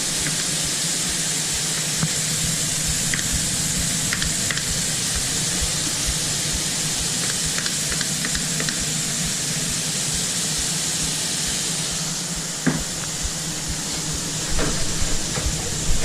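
Food frying in a food truck kitchen: a steady sizzle over a low steady hum, with light utensil clicks, a single knock about three-quarters through and some clatter near the end.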